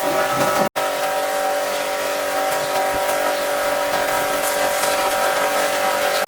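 Pressure washer running steadily: a constant motor-and-pump whine under the hiss of the spray. The sound cuts out completely for an instant just under a second in.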